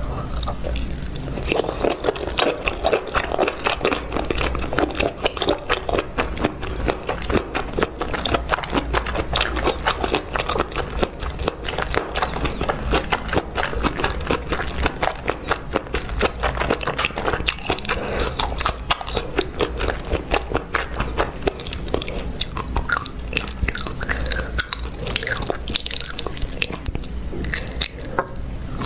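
Close-miked eating sounds: a person biting and chewing food in red chili sauce, a rapid, continuous run of mouth clicks and smacks. Near the end the mouthful is a bundle of enoki mushrooms.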